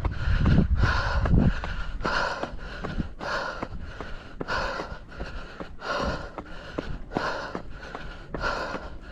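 A runner panting hard, about two loud breaths a second, from the effort of a steep uphill run. Footsteps tap faintly between the breaths, and wind rumbles on the microphone during the first second or so.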